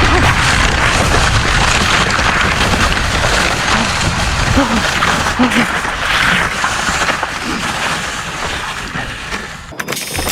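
Wind buffeting the microphone with a steady rushing noise and heavy low rumble during a fast sled ride over snow, easing off near the end.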